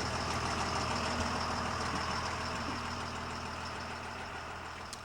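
Shuttle bus engine running with a steady hum and a faint high whine, growing gradually quieter.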